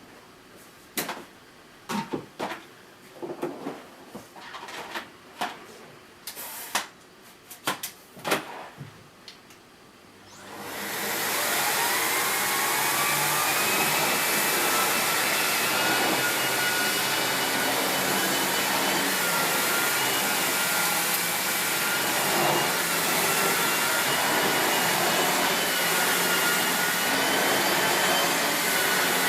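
Several clicks and knocks, then about ten seconds in a 2200 W Miele S8730 (C3 Complete) cylinder vacuum cleaner switches on. Its motor whine rises as it spins up, and it then runs steadily with a turbo brush on carpet.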